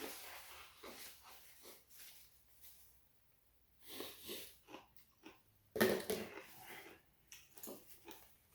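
Close-up eating sounds of a person chewing and breathing through a meal of ramen and crunchy radish kimchi: irregular short bites and chews, with a louder short burst about six seconds in.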